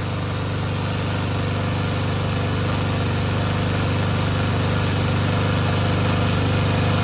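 Honda GCP160 single-cylinder overhead-cam lawnmower engine running steadily with ketchup in its crankcase in place of oil.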